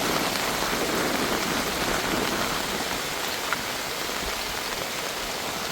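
Rain falling steadily on a surface, an even hiss at a constant level.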